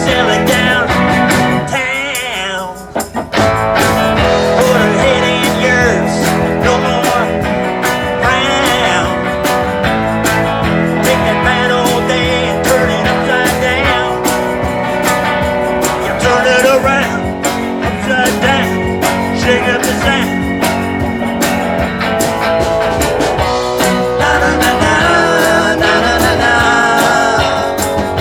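Live band playing a song with guitar over a steady beat; the music drops out briefly about three seconds in.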